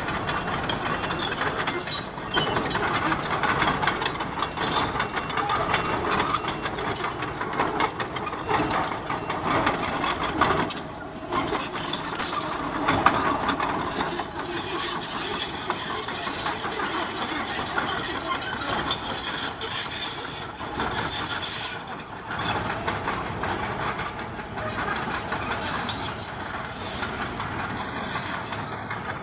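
Bulldozer at work: its diesel engine running under load with the clatter and grind of tracks and blade pushing stone. The noise is continuous and rises and falls in loudness, dipping briefly twice.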